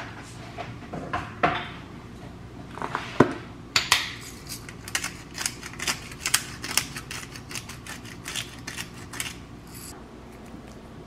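A run of light clicks and taps, about two or three a second, starting about four seconds in and stopping near the end, after a few louder knocks.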